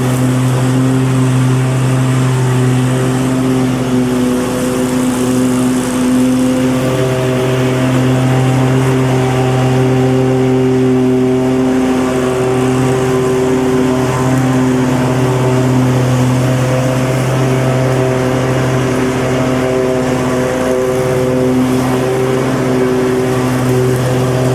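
Lawn mower engine running steadily at a constant speed, its pitch and loudness wavering slightly.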